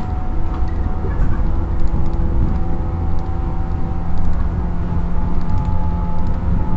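JR 115 series electric train heard from inside motor car MoHa 114, running along the line: a steady heavy rumble of wheels on rail, with the whine of its MT54D traction motors as a few steady tones that shift slightly a couple of seconds in.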